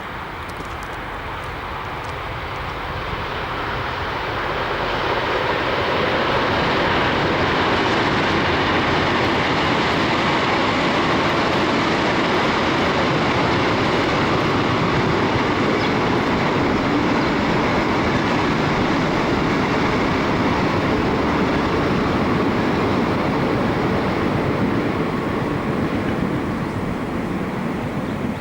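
Heritage train hauled by two Victorian Railways diesel-electric locomotives (X and B class) going by, with rumble and wheel noise. The sound builds over the first several seconds, holds steady and loud through most of the passage, then eases a little near the end.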